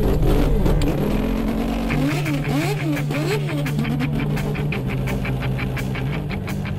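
Car engine revved up and down several times in quick swells, over a steady low hum and a fast, even ticking.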